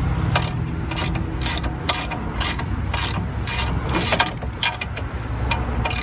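Hand ratchet clicking in repeated strokes, about two short bursts of pawl clicks a second, as a 15 mm brake caliper bracket bolt is backed out, over a steady low hum.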